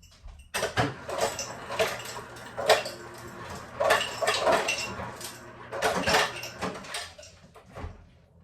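Ice cubes clattering into a glass mason jar: a run of irregular sharp knocks and clinks that stops about a second before the end.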